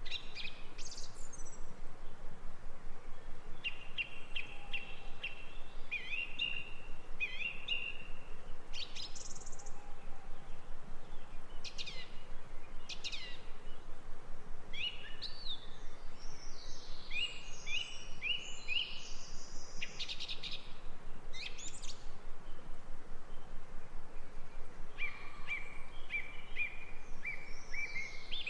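Songbirds singing: series of quick repeated chirps and short sweeping whistles, coming in phrases with pauses between them, over a steady background hiss of outdoor noise.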